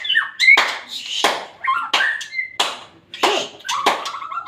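Caged murai songbird calling: short whistled chirps and a brief held note near the end, broken up by many sharp clicks.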